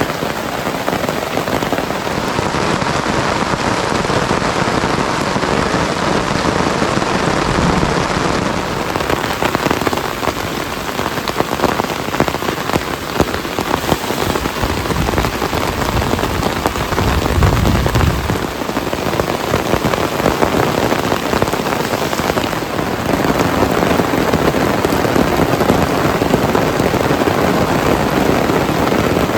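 Heavy rain falling steadily, with a brief low rumble about two-thirds of the way through.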